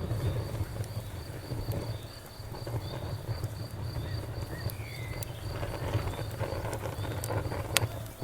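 Campfire crackling, with scattered sharp pops and one louder pop near the end, over a steady low rumble, while crickets chirp in a high, even pulse about three times a second.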